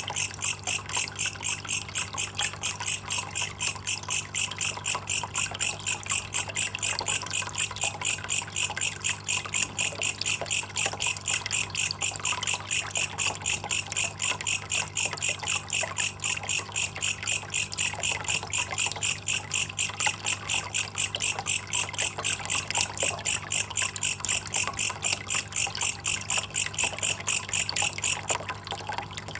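Belalang kecek katydid stridulating in a fast, even pulse train of about four to five chirps a second, which stops shortly before the end, over a faint trickle of water.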